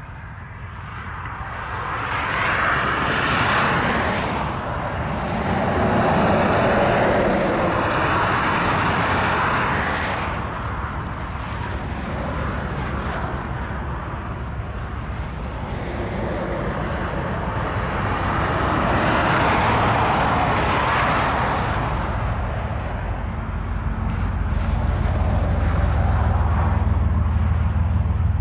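Freight train rolling past, with wind gusting on the microphone; the noise swells and eases in several long waves. A steady low hum builds in the last few seconds.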